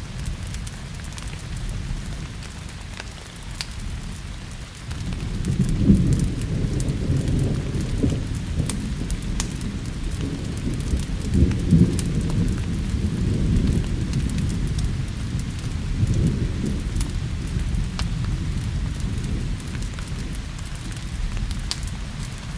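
Steady rain with thunder rumbling, the rumble swelling about five seconds in and rolling on with peaks near the middle. Scattered sharp crackles from a wood fire sound over it.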